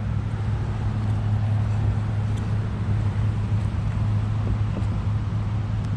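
A steady low hum under an even wash of noise, unchanging throughout.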